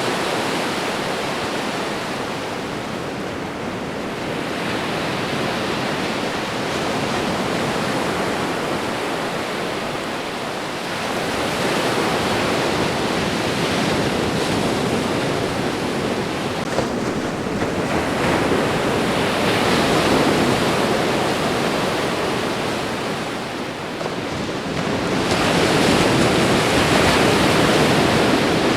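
Ocean waves washing onto a shore, a steady rush of surf that swells and eases every few seconds, loudest near the end.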